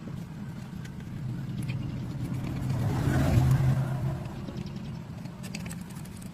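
Car engine running, swelling to its loudest about halfway through and then easing off.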